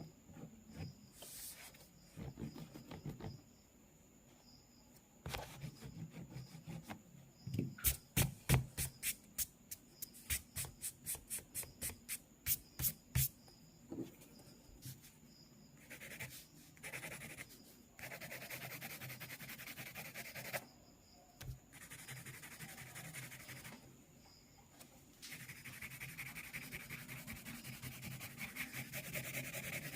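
Pencil sketching on paper. About a third of the way in comes a run of quick, sharp taps, about four a second. The second half holds long stretches of scratchy pencil strokes, broken by short pauses.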